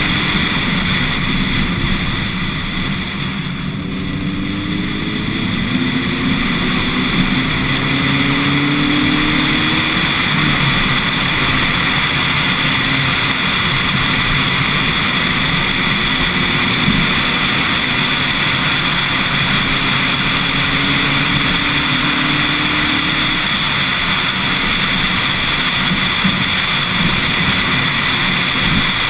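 Lotus Elise S1 111S's four-cylinder engine pulling hard up a mountain road. It eases off around four seconds in, climbs in revs over the next several seconds, then settles to a steady drone and rises again about two-thirds of the way through, all under a constant rush of wind and road noise on the outside-mounted camera.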